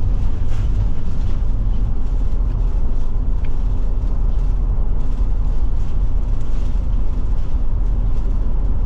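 Steady engine and road noise inside the cab of a Forest River Forester motorhome driving along, a deep, even rumble.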